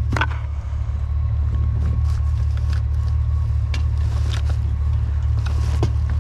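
Truck engine running with a steady low rumble, with scattered light clicks and rattles over it.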